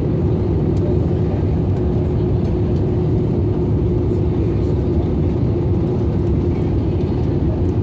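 Airbus A320-200 cabin noise in flight: a steady rush of engine and airflow noise, with a constant hum running through it.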